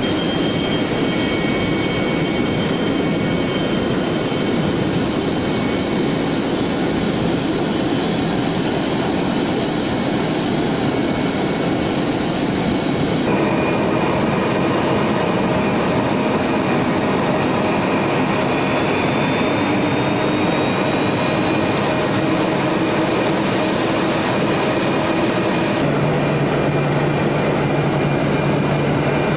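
Jet airliner engines running with a steady loud rush and high whining tones. The sound changes abruptly twice, as the film cuts from one aircraft to another.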